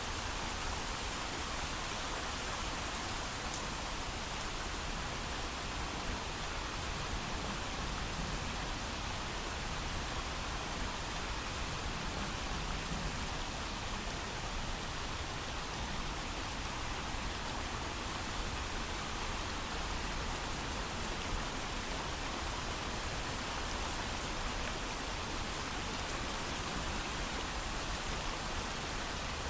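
Steady, heavy rain falling, an even hiss of drops with no thunder.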